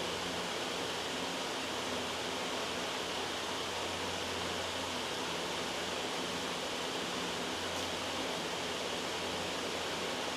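Steady, loud white noise: an even hiss that does not change.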